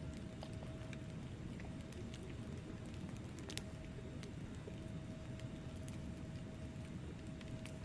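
Wood fire burning in a fireplace: a low steady rumble with scattered small crackles and one louder pop about three and a half seconds in.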